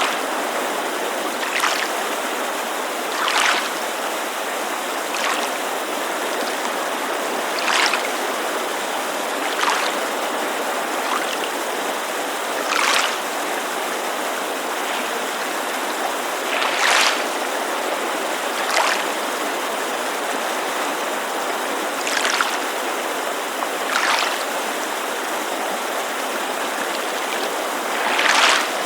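Steady rushing white noise of a mountain creek, with small lake waves lapping against the shore in short, irregular splashes every couple of seconds.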